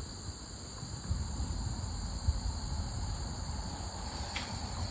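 Steady, shrill insect chorus of several unbroken high tones, over a low rumble of wind on the microphone, with one short click near the end.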